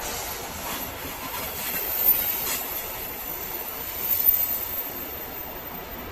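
Ro-ro freight train carrying trucks, running on the rails: steady wheel and track noise with a faint high wheel squeal, and two louder knocks, about two and four seconds in.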